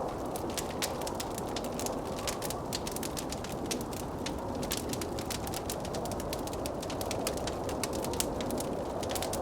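Wood fire crackling in a fireplace, with frequent irregular small pops, over the steady noise of blizzard wind.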